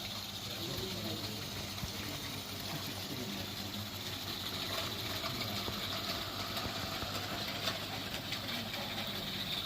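A 16mm-scale live steam model locomotive running: a steady hiss of steam with faint, rapid clicking over a low hum.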